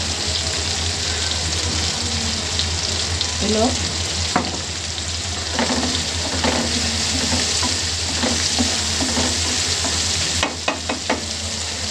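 Chicken pieces with onion, tomato and chilli sizzling steadily in hot oil in a black wok, stirred with a wooden spatula that scrapes and knocks against the pan now and then, with a quick run of knocks near the end.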